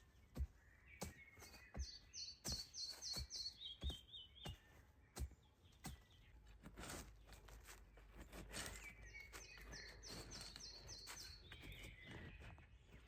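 A songbird singing twice, each phrase a quick run of repeated notes stepping down in pitch. Faint sharp knocks or clicks sound here and there, most of them in the first half.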